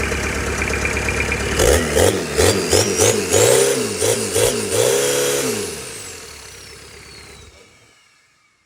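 Toyota 2L-T four-cylinder turbo diesel in a 1992 Hilux Surf idling, then revved in about seven quick blips with a rising turbo whistle. It then drops back and its sound dies away, with the turbo's whistle falling steadily as it spools down.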